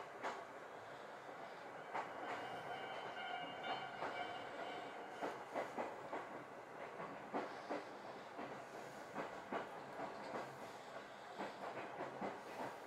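Chichibu Railway 6000 series electric train running, heard from inside the car: a steady running noise with wheels clicking irregularly over rail joints. About two seconds in, a steady tone holds for a couple of seconds.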